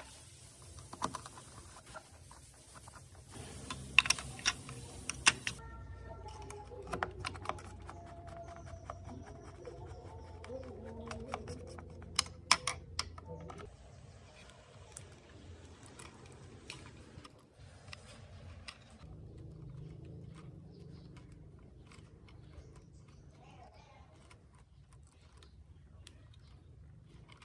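Irregular light clicks and taps, with a few sharper ones about four seconds in and again near the middle, growing sparser toward the end.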